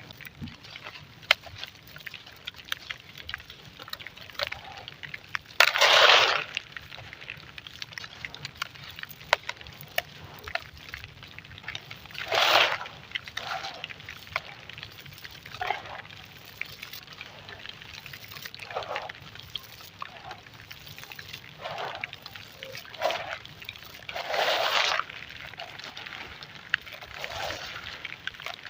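Wet and dry golden sand crumbling, a continuous gritty crackle with a few louder crunching bursts several seconds apart.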